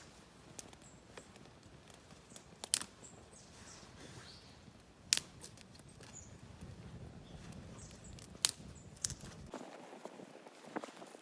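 Wood fire crackling, with a few sharp pops a few seconds apart over a faint background.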